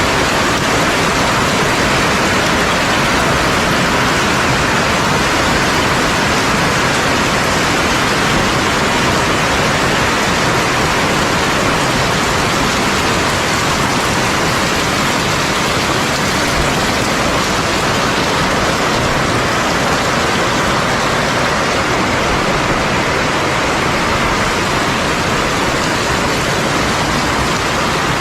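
Heavy rain falling steadily, a loud, dense, even hiss with no breaks or thunderclaps.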